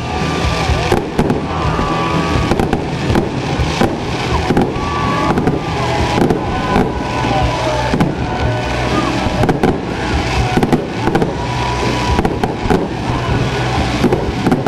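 Fireworks show: aerial fireworks bursting one after another, many sharp bangs a fraction of a second to a second apart, over music.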